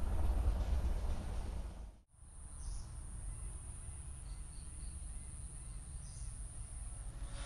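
Low rumble of a train that has just gone past, fading over the first two seconds, then cut off abruptly. After the cut, quiet trackside ambience: a few short bird chirps over a steady high-pitched whine and a faint low hum.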